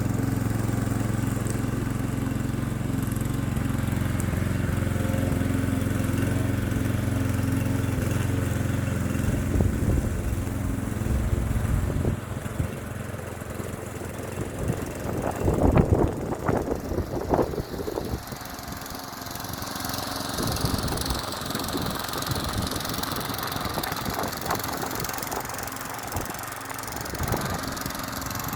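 Klippo petrol lawn mower engine running steadily just after it has been started. About twelve seconds in the engine drops back in level, followed by a few loud, irregular bumps and rustles, then it keeps running more quietly.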